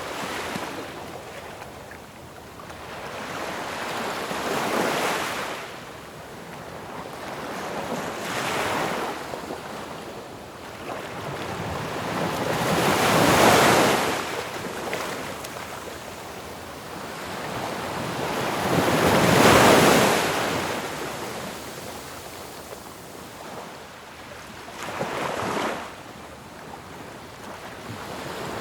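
Ocean waves breaking on a shore, a wash of surf that swells and ebbs every few seconds, with two bigger crashes in the middle of the stretch.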